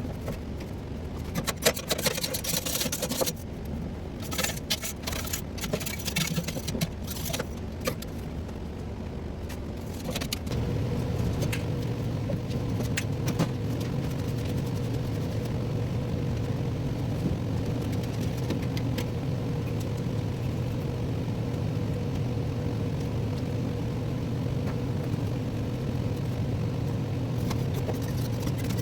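Irregular clicks, crackles and knocks of hands-on work over a low hum. About ten seconds in, a steady machine hum starts and runs on.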